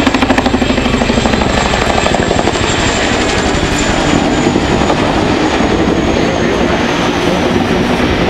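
Boeing Chinook tandem-rotor helicopter flying, its twin turboshaft engines and rotors loud. A fast, even beat of rotor blade slap in the first second gives way to a steady rush, under a high turbine whine that slowly falls in pitch.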